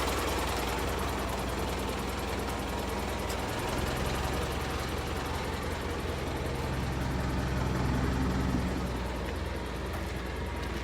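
Isuzu Elf truck engine running steadily at idle. A low hum joins in about three and a half seconds in, swells, and drops away again near the end.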